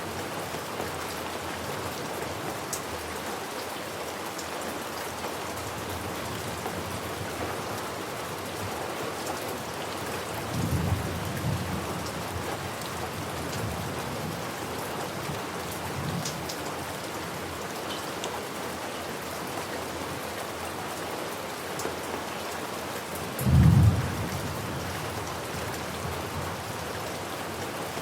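Steady heavy rain falling on a surface, with a low rumble of thunder about ten seconds in and a louder, shorter thunderclap rumble near the end.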